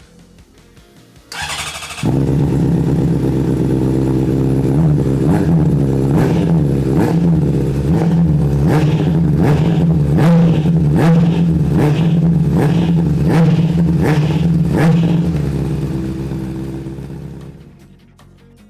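2008 Honda CBR600RR's inline-four engine started on the electric starter, catching about two seconds in, then running with a string of quick throttle blips before the sound dies away near the end. This is a cold start to warm the oil before it is drained.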